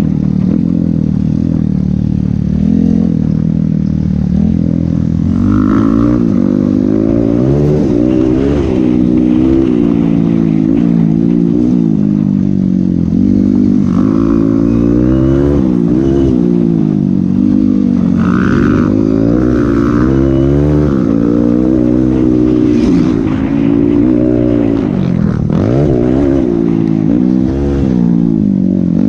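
Motocross bike engine ridden hard, its pitch climbing and dropping over and over with the throttle and gear changes.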